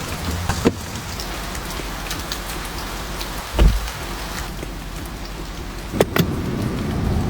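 Heavy rain falling on a car, with scattered drops ticking, a low thump about halfway through and a sharp tap near the end.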